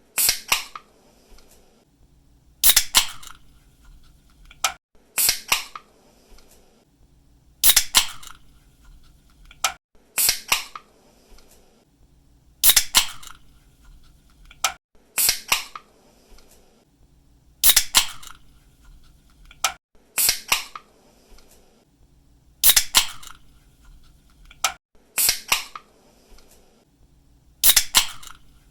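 Aluminium drink can pull-tab snapped open again and again: each opening is a sharp crack, then a second snap with a short hiss of escaping gas, repeating about every two and a half seconds.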